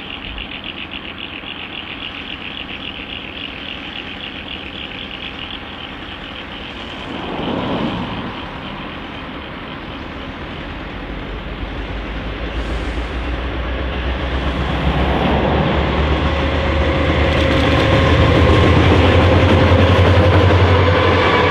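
Diesel-electric freight locomotives approaching, their deep engine rumble growing steadily louder through the second half. There is a brief swell of noise about a third of the way in.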